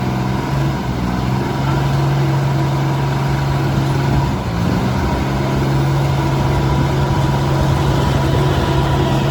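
Heavy diesel engine of earthmoving machinery running steadily at one speed, its pitch dipping briefly about four seconds in before it settles again.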